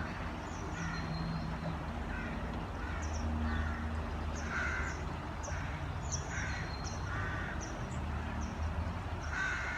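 Rooks cawing repeatedly, several harsh caws about a second apart, over a steady low rumble.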